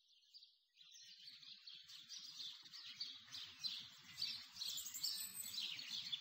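Birds chirping, a dense run of short high calls that fades in from silence and grows steadily louder.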